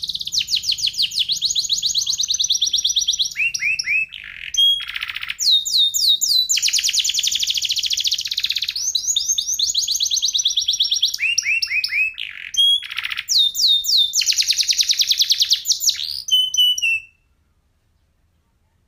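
Domestic canary singing a long song of fast rolling trills, each run of rapidly repeated high notes giving way to another every second or two, with a few lower-pitched trills mixed in. The song breaks off near the end.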